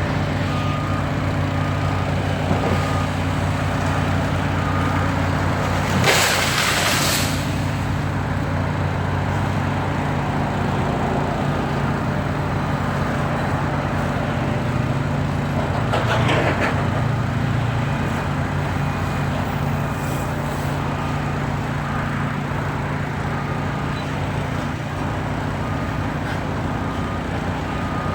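A large engine running steadily, with a loud hiss of air about six seconds in and a shorter one near sixteen seconds. Faint repeating beeps sound through the first five seconds or so.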